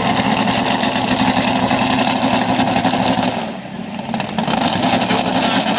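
Pulling truck's engine running at high revs under load, easing off briefly about three and a half seconds in, then revving back up.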